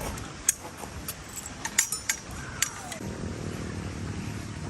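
Several sharp clicks and knocks in the first three seconds, then a low steady engine-like hum from about three seconds in.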